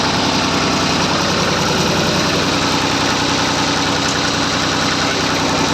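Massey Ferguson 35 tractor's engine running steadily.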